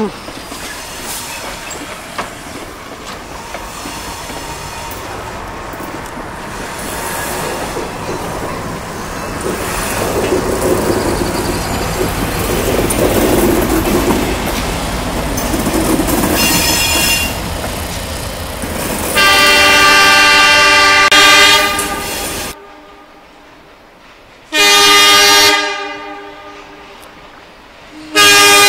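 A slow-moving passenger train rolls past, wheels clicking and rumbling over the rail joints, and grows louder partway through. About two-thirds in, a train horn sounds a loud long blast. After a sudden drop, a second, shorter blast fades away, and the horn starts again at the very end.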